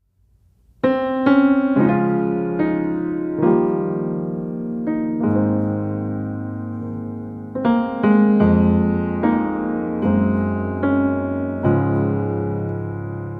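Background piano music, with notes and chords struck one after another and left to ring. It starts after a short silence about a second in.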